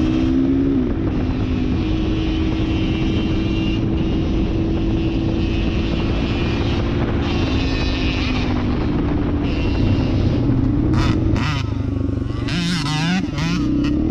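Dirt bike engine running under way, its pitch holding steady and then stepping to a new level several times as the throttle and gears change. Near the end comes a short spell of sharp, wavering noise over the engine.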